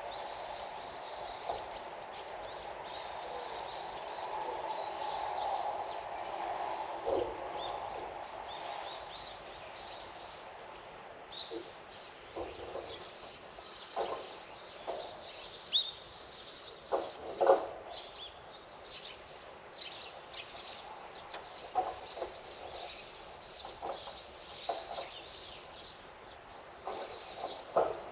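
Small birds chirping and calling again and again over a steady outdoor background hum. In the second half there are several short, louder sharp sounds.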